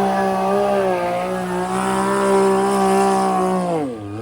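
ATV engine at steady high revs, its pitch falling sharply near the end as the revs drop.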